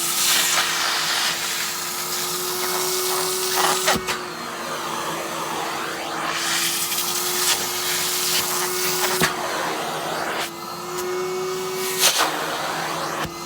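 Henry tub vacuum cleaner running with a steady motor whine over rushing air, worked over a padded down jacket. The pitch shifts slightly a few times, and there are a few sharp clicks.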